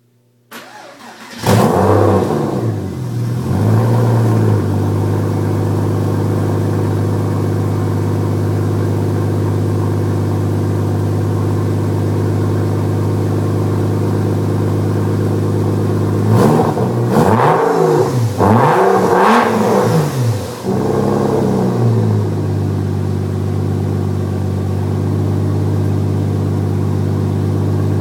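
1999 Porsche Boxster's flat-six engine through a Stebro stainless race exhaust, cranked and catching about a second in, blipped twice, then idling steadily. About halfway through it is revved in about four quick blips, then settles back to idle.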